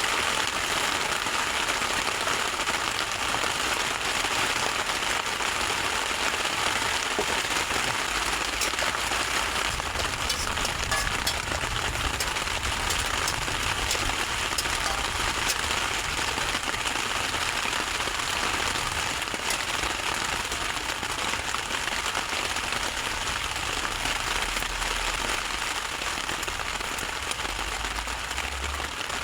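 Fried rice sizzling in hot oil in a pan over a campfire, a steady hiss with fine crackling and popping.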